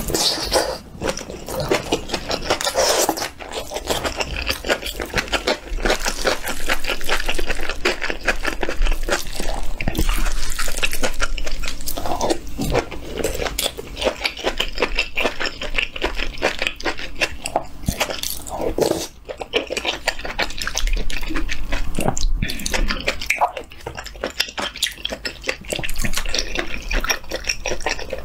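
Close-miked wet chewing and lip-smacking of a person eating spicy octopus fried rice and fish cake soup, a dense run of quick wet clicks with a couple of short lulls.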